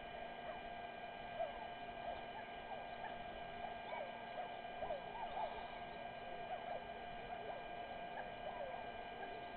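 Many short, squeaky bird chirps at a few per second over a steady electrical hum from the camera's audio line.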